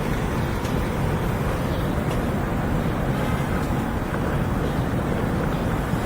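Steady low rumbling noise with no clear strokes or tones.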